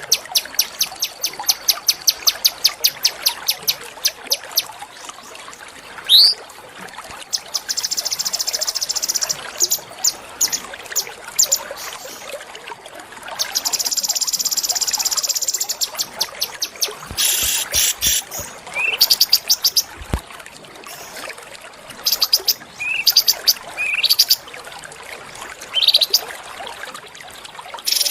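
Small songbird singing: a fast run of sharp repeated chips, then two long buzzy trills and several short rising whistles, over a faint steady hiss.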